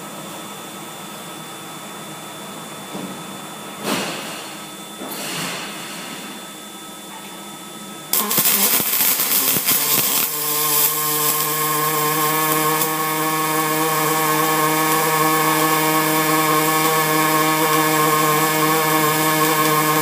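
Automated welding arc on a rotator weld cell. The arc strikes about eight seconds in with loud crackling, then settles after about two seconds into a loud, steady buzz at a fixed pitch over a hiss. Before the strike there is only a quieter machine hum with a couple of brief swells of noise.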